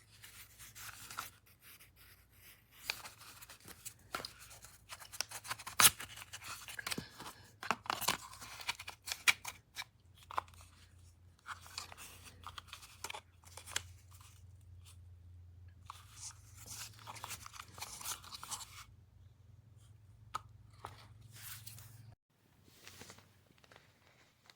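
Hands unpacking the product: irregular crinkling, tearing and clicking of packaging, heaviest in the first two-thirds. Underneath runs a steady low hum that cuts off suddenly near the end.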